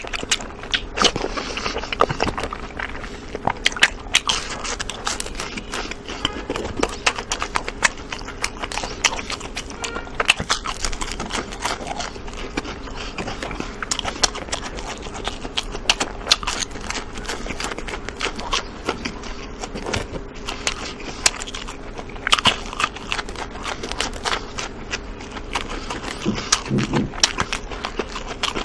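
Close-miked eating: biting and chewing of golden fried star- and ring-shaped snacks, heard as a dense run of short crunching clicks and mouth sounds.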